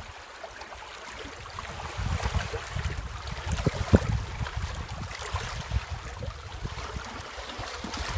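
Wind buffeting the microphone in uneven gusts, picking up about two seconds in, with a few short knocks along the way.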